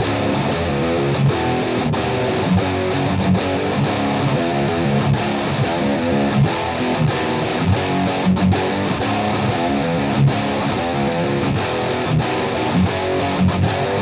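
Distorted electric guitar playing a heavy metal rhythm riff in drop B tuning, double-tracked, through a Seymour Duncan bridge humbucker on a Washburn Idol guitar. Brief stops break up the chugging, and the riff cuts off abruptly at the end.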